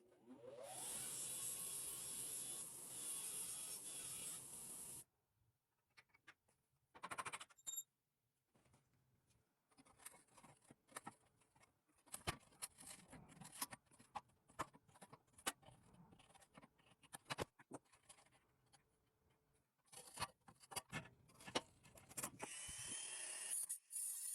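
A small power tool spins up and runs steadily for about four seconds, then runs again near the end. In between come scattered light clicks and knocks of parts being handled.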